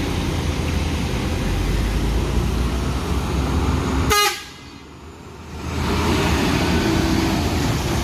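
Heavy truck engine labouring up a steep climb, with horn toots. About four seconds in the sound drops away sharply for about a second and a half, then returns.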